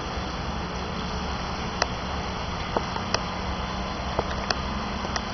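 Heavy rain falling as a steady hiss, with a few sharp taps of single drops striking close by.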